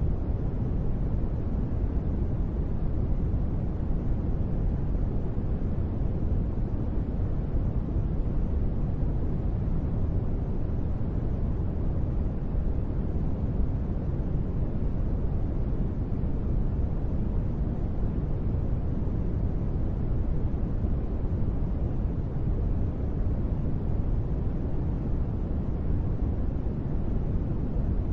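Steady, deep noise of the kind sold as gentle rain sleep sound: an even low rush with no single drops or patter standing out, unchanging throughout.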